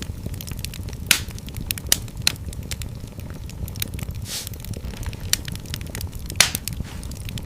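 Wood fire in a fireplace crackling, with a handful of sharp, irregular pops over a steady low rumble of the flames.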